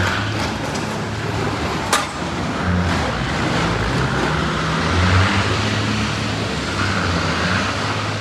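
Heavy vehicle engine running with steady road and traffic noise, and a sharp click about two seconds in.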